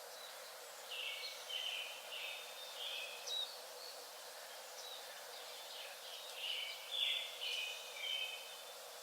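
A small bird singing: two phrases of short, quickly repeated chirping notes, the first about a second in and the second about six and a half seconds in, over a steady outdoor hiss.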